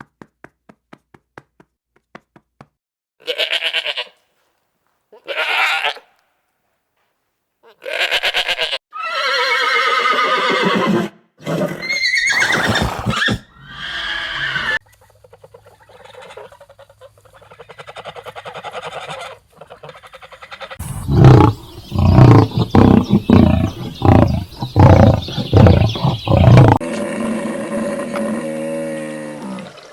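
A series of different animal calls: faint clicks at first, then short pitched cries and gliding calls, and from about two-thirds of the way in a run of loud, rapidly repeated calls.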